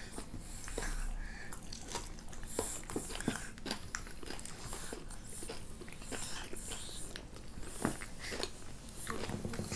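A person chewing and crunching food close to the microphone, with many small irregular crunches: eating sweet potato with kimchi.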